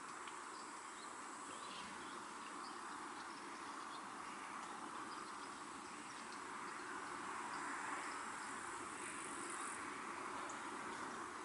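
Countryside outdoor ambience: a steady rushing hiss that swells a little about two-thirds of the way through, with a faint high insect drone and scattered small chirps.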